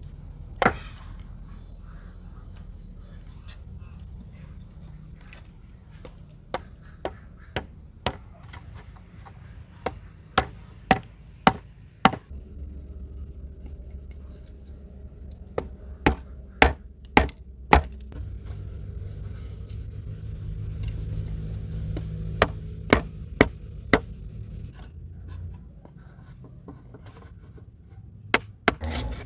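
Chopping with a blade into wood: sharp strokes in short runs of three to five, about two a second, with pauses of a few seconds between runs.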